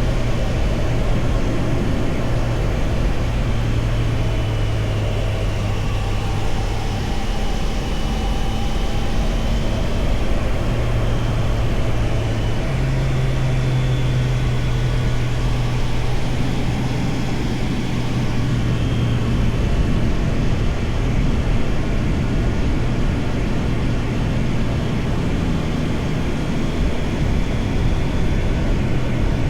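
Triumph Tiger Sport 660 motorcycle's three-cylinder engine running while riding, its note shifting in pitch a few times (about 7, 13 and 20 seconds in) as the throttle or gear changes, over a steady rush of wind and road noise.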